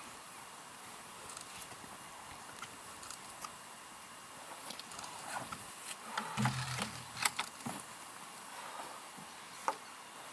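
Sound-effect of a horse's hooves knocking on the ground, sparse at first and bunching into a cluster of louder clops about six to seven seconds in, with a brief low horse sound at the same time, over a steady hiss.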